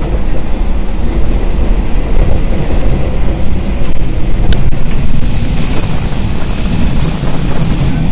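Steady running rumble of a moving KiHa 40-series diesel railcar, heard from inside the car. A single sharp click comes about four and a half seconds in, and a high thin tone joins from about five seconds.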